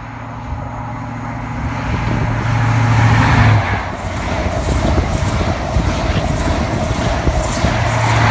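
A First Great Western High Speed Train (InterCity 125) passing at speed. The leading Class 43 power car's diesel engine drone peaks about three and a half seconds in. Rushing wheel noise with repeated sharp clicks follows as the coaches go by, and the rear power car's engine drone swells again near the end.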